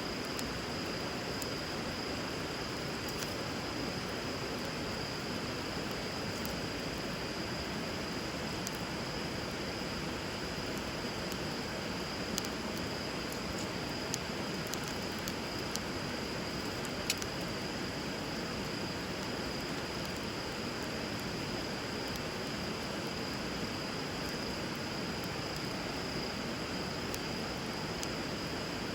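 Wood fire crackling with sparse sharp pops, over the steady rush of flowing river water.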